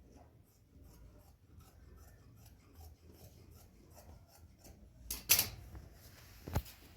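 Scissors cutting cloth: a quick run of small snips, with a louder rustle about five seconds in and a sharp click near the end.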